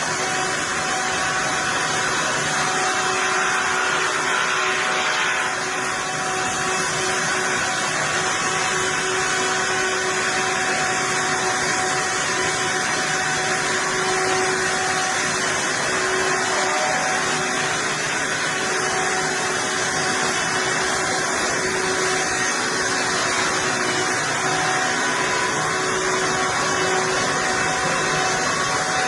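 Portable sawmill running steadily: a constant machine whir with a steady hum that holds even throughout.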